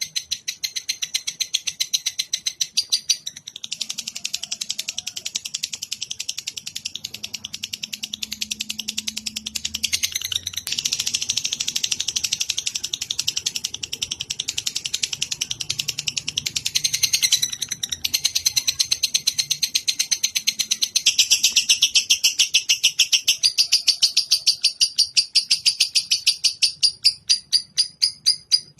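Recorded songbird call played as a masteran (song-training track): a fast, continuous chatter of sharp, high chirps, many a second, shifting in pattern every few seconds and spacing out into separate chirps near the end.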